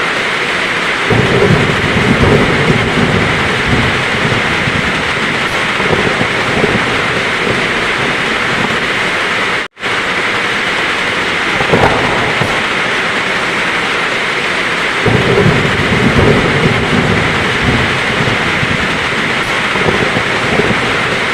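Heavy, steady rain with thunder rumbling low underneath, swelling about a second in and again about two thirds of the way through. The sound drops out completely for an instant about halfway through.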